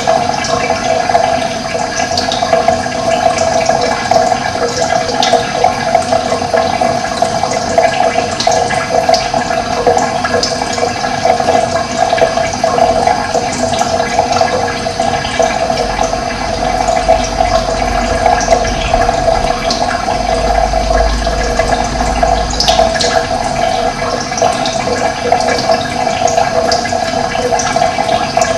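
Running water flowing steadily, a continuous rushing sound with no break.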